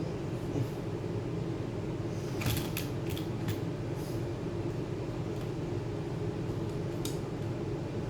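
Steady low hum with a few small sharp clicks: a cluster about two and a half to three and a half seconds in and one more near seven seconds.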